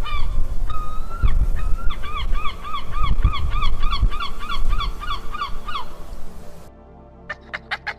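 A bird honking: a few drawn-out honks, then a fast run of about four honks a second that stops about six seconds in.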